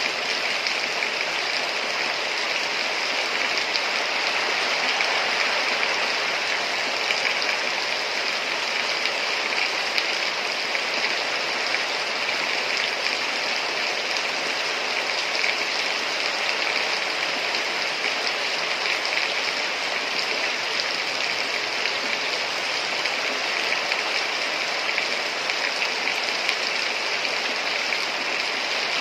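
Heavy rain falling steadily, a dense, even hiss with no break or change.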